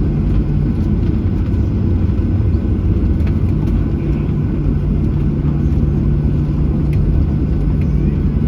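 Steady low rumble of a Boeing 737-800's jet engines and airflow heard from inside the passenger cabin, with a constant low drone.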